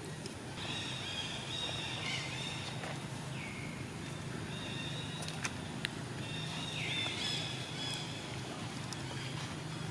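Monkey giving a run of long, high-pitched calls, each held and then dropping in pitch at its end, five or six in a row. A couple of sharp clicks are heard about halfway through.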